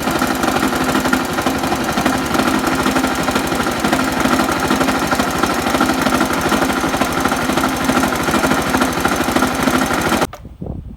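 Honda Super Cub's small single-cylinder four-stroke engine running steadily with a fast, even knocking clatter, the abnormal engine noise that has the engine coming out for inspection. It cuts off suddenly near the end.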